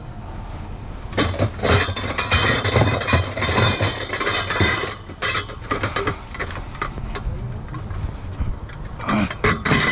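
Scrap metal clattering and rattling in irregular knocks over a steady low engine rumble.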